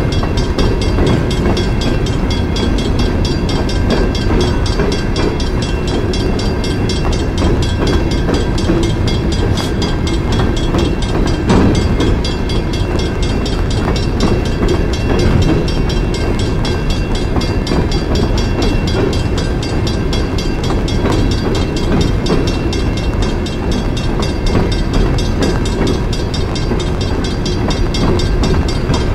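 CSX coal train's hopper cars rolling steadily past, a loud continuous rumble of steel wheels on rail.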